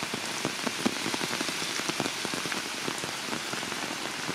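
Heavy rain falling on tree leaves: a steady hiss with many separate drop taps throughout.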